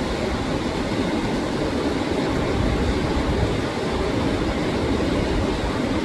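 Steady rushing of a river flowing nearby, an even wash of noise that holds at one level.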